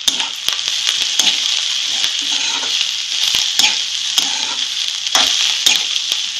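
Shengoli (horse gram flour dumplings) with onion and coriander sizzling steadily in oil in a kadhai while a steel spatula stirs and scrapes them, knocking against the pan about once a second.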